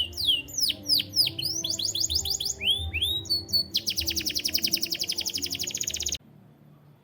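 Domestic canary singing: phrases of quickly repeated down-slurred whistled notes, then a rapid, even trill about four seconds in. The song cuts off suddenly a little after six seconds.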